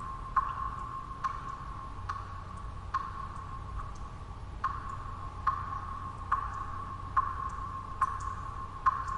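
Water drops falling one at a time at a steady pace, a little more than one drop a second, each a short ringing plink, over a low, steady background of white noise.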